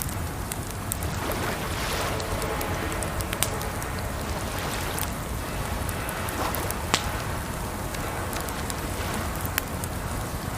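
Wood fire crackling, with sharp pops every second or two, over a steady rush of water that swells now and then.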